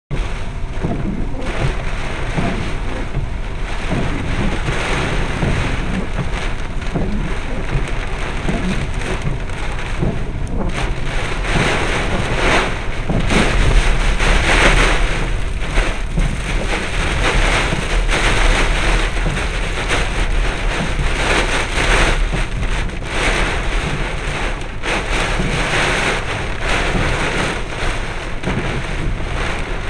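Storm with high winds: a continuous heavy rushing noise with a low rumble, swelling and easing in gusts and loudest about halfway through.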